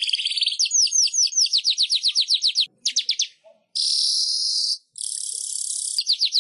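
Manyar weaver bird singing: a fast trill of repeated down-slurred notes, a short stuttering burst, then long dry buzzing hisses, and the fast trill starts again near the end.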